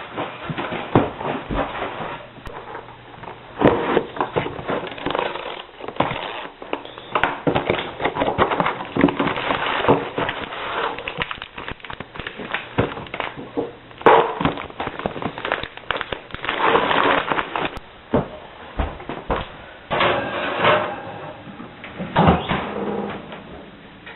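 Skateboard rolling, with repeated sharp clacks and smacks of the board popping and landing as tricks are tried, coming in irregular clusters.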